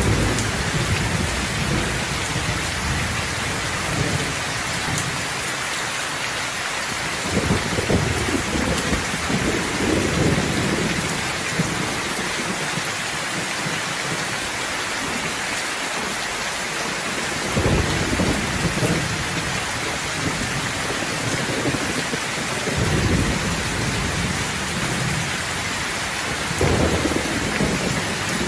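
Steady rain falling, with rolling thunder rumbling low over it several times, each roll lasting a few seconds.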